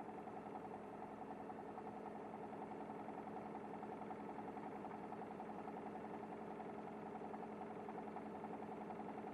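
Kanto Bus city bus engine running steadily, heard from inside the bus, an even hum that holds one pitch with no revving.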